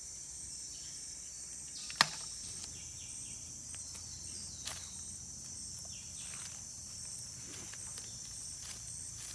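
Forest insect chorus shrilling steadily, one insect pulsing in a quick even rhythm. A single sharp snap or knock cuts through about two seconds in, and a fainter one comes near the middle.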